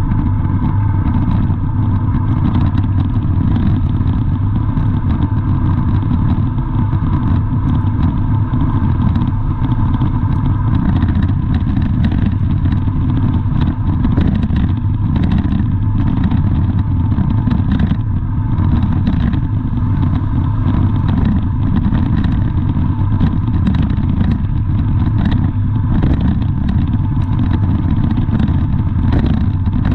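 Steady vehicle engine and traffic noise: a loud, unbroken low drone with a faint constant whine above it.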